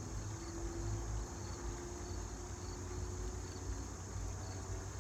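Night-time chorus of crickets: a steady high-pitched trill with regular chirps a little more than once a second, over a low rumble.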